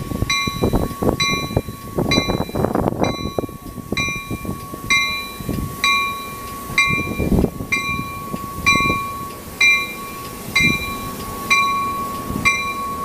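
NJ Transit commuter coaches (Comet cab car and coaches) rolling past as the train departs, the wheels rumbling and knocking irregularly. Over it sound a steady high tone and a short ding repeating about twice a second.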